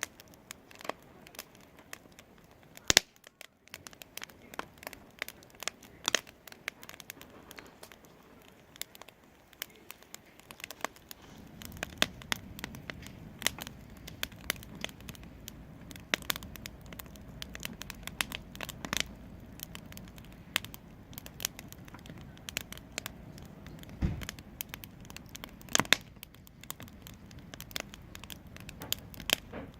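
Wood fire in a fireplace crackling, with sharp pops scattered irregularly. About a third of the way in, a low steady rumble joins the crackling.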